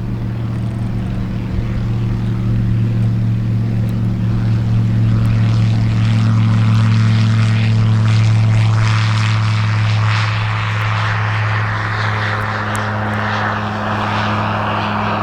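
Light propeller aircraft's piston engine running at a steady pitch, getting louder through the middle and easing slightly near the end.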